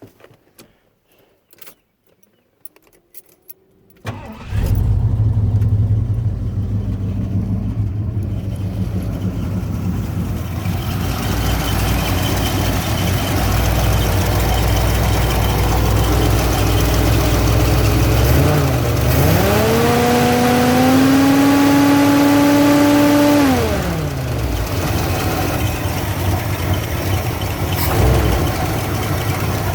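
A Ford F-150's 351 Windsor V8 starts about four seconds in and settles to idle, with a growing rush of air from its engine-driven cooling fan, a larger fan taken from an air compressor. About two-thirds through, the engine is revved up, held for several seconds and let back down to idle.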